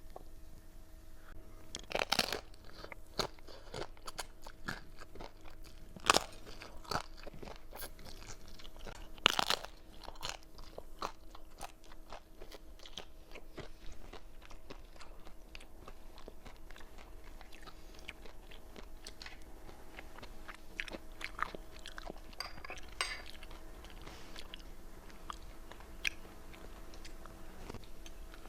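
Crisp fried wonton chips being bitten and chewed close to the microphone: loud sharp crunches about 2, 6 and 9 seconds in, then steady crackly chewing.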